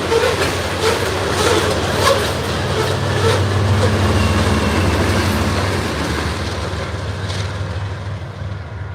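BNSF freight train rolling past, its wheels clicking over the rail joints during the first couple of seconds over a steady low rumble. The rumble and the clatter fade toward the end as the train moves away.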